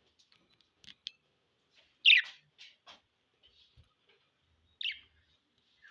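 Budgerigars chirping: a few short, sharp chirps scattered through the quiet, the loudest about two seconds in and another near five seconds.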